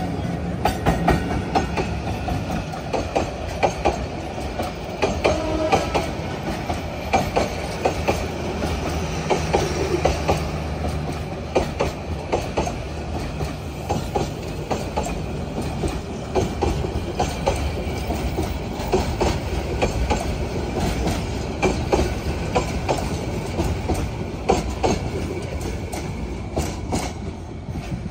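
Passenger train hauled by a 3000-series diesel locomotive running along the track. Rapid, irregular wheel clicks over rail joints sound over a steady rumble.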